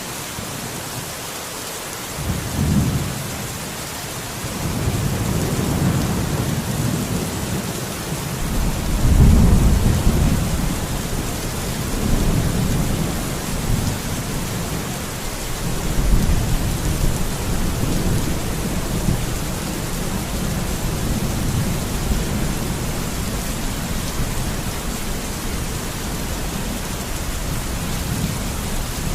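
Steady rain with rolling thunder. A short rumble comes about two and a half seconds in, then a long, deep roll that builds and peaks around ten seconds, followed by further rumbles that gradually settle under the constant hiss of rain.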